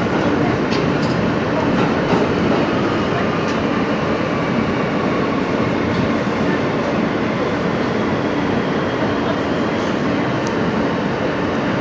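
Inside an R160B subway car, the train running at speed: a steady rumble of wheels on rail with a few faint clicks from the track joints.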